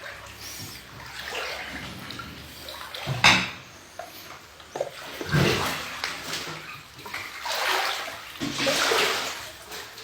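Floodwater splashing and sloshing in irregular surges, with a sharp splash about three seconds in.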